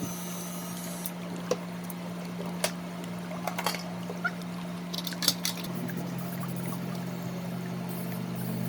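Electric dog grooming clippers humming steadily, with a few short sharp clicks in the first half and a second, lower hum joining about two-thirds of the way in.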